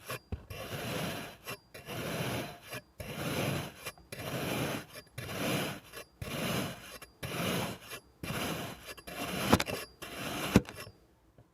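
Kinetic sand being cut with a knife: a run of gritty, crunchy scraping strokes, about one a second. Two sharp taps near the end, then the cutting stops.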